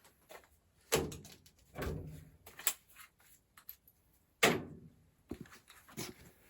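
Sheet-metal ductwork and tools being handled: a few separate clanks and thuds with a short metallic ring, the loudest about four and a half seconds in.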